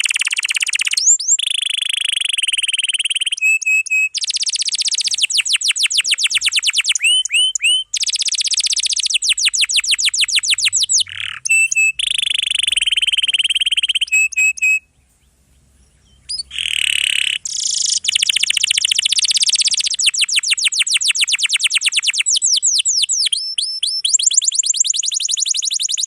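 Domestic canary singing long, fast rolling trills and runs of repeated chirps, with one pause of about a second and a half just past the middle.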